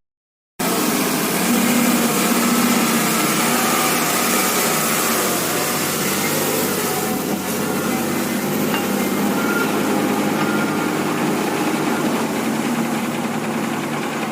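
Engine-like running sound, steady throughout, after a brief silent gap at the start.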